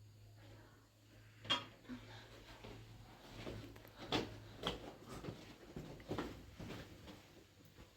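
Irregular knocks and clatter of objects being handled, the sharpest about one and a half seconds in, with several more over the following seconds.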